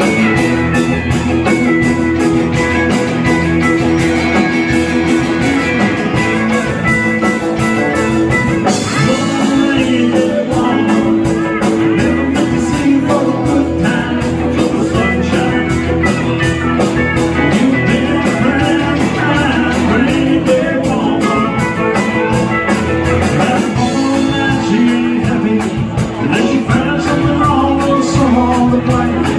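A live country band playing the song with a steady drum beat. The sound gets fuller and brighter about nine seconds in.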